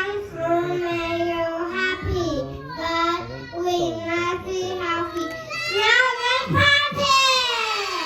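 Young children singing a song with held notes; the last note is drawn out and slides down near the end.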